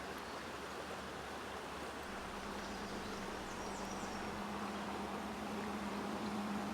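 River water rushing steadily, with a low steady hum coming in about two seconds in and a few faint high chirps in the middle.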